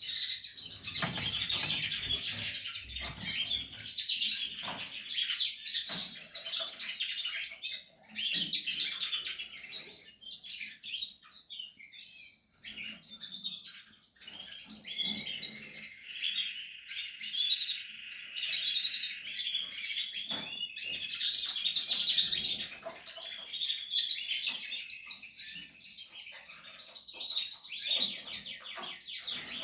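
Portuguese harlequin canaries chirping and singing, quick chirps and trills throughout with a longer run of steady trilling in the middle, among scattered soft knocks.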